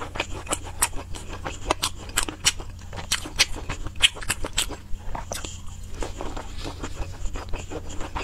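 Close-miked chewing of saucy seafood: wet, sticky mouth clicks and smacks, several a second and irregular, over a steady low hum.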